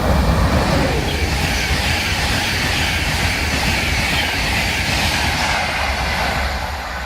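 A passenger train going by at close range: a steady rumble with a rushing hiss over it, loudest at the start and easing off near the end.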